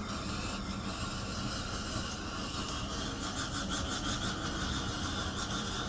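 Swiss army petrol stove's priming flame burning in its preheat bowl with a steady, even rush; the burner tap is still off while the stove warms up.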